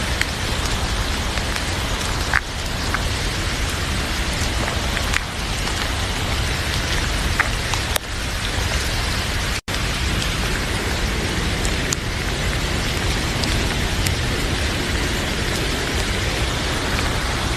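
Heavy rain falling steadily, with a few sharp crackles from a wood fire in a fireplace. The sound cuts out for an instant about ten seconds in.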